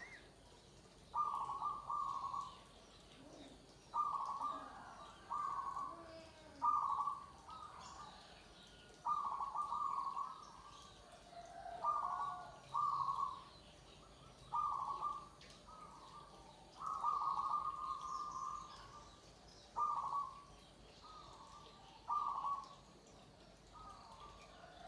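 Zebra dove (perkutut) cooing: short phrases at about the same pitch, repeated every one to two seconds, with faint higher chirps behind them.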